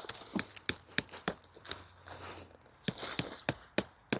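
Tent being pitched: rustling with a run of irregular sharp clicks and snaps, about three a second, as guy lines are pulled tight and tent stakes pushed into the ground.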